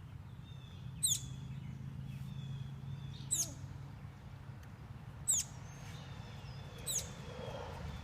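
Baby bird chirping: four short, high chirps, each sliding sharply down in pitch, about two seconds apart.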